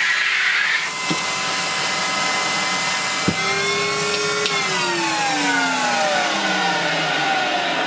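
Numatic Henry canister vacuum cleaner running and sucking up debris. There is a knock about three seconds in, and past the halfway point the motor's pitch falls steadily while the noise stays loud.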